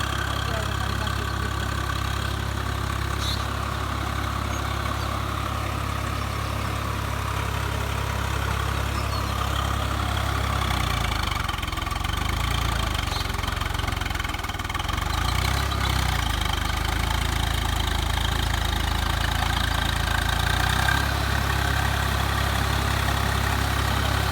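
Swaraj 744 FE tractor's three-cylinder diesel engine running steadily at idle. Its note changes about halfway through and is a little louder afterwards.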